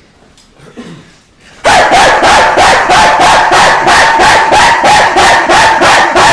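A dog barking rapidly and very loudly, about three barks a second in an even run, starting about a second and a half in.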